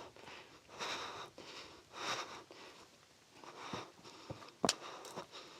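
A man breathing hard after a climb, heavy breaths about once a second, with one sharp click late on.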